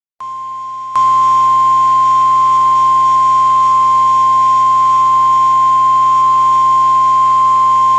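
Weather-radio warning alarm tone: a single steady high-pitched tone near 1 kHz, which signals that an emergency warning broadcast follows. It starts quieter and jumps to full loudness about a second in.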